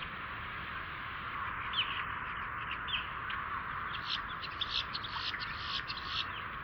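Birds calling over a steady hiss: scattered short, harsh calls from about two seconds in, turning into a quick run of calls for the last couple of seconds.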